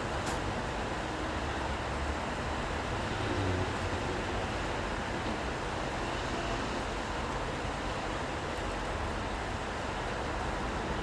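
Steady city street ambience in the rain: a continuous low traffic rumble under an even hiss of rain and wet road, with one sharp click just after the start.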